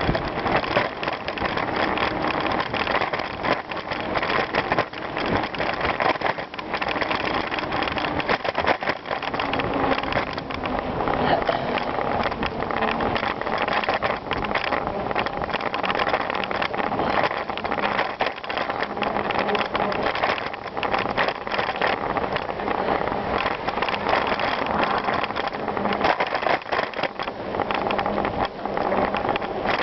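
Bicycle ridden over gravel: tyres crunching steadily, with a constant stream of small clicks and rattles.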